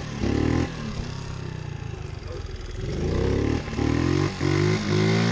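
Pit bike engine revving up in several short pulls, its pitch climbing in each and breaking off between them, one near the start and three in quick succession in the second half.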